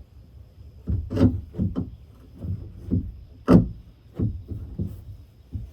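Hammer striking a nail into a wooden roost bar: about ten uneven blows, the loudest near the middle.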